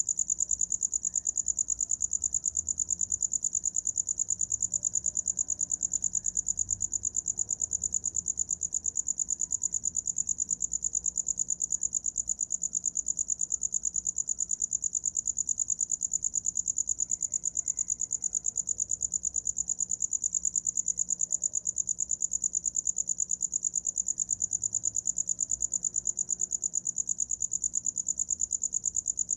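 A cricket singing steadily: a high, rapid, evenly pulsed chirping that goes on without a break.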